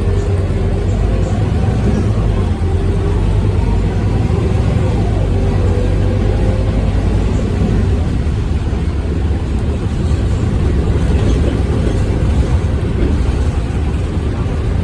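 Scania K230UB city bus's diesel engine running under way, a steady low rumble with a faint whine that slides up and down in pitch.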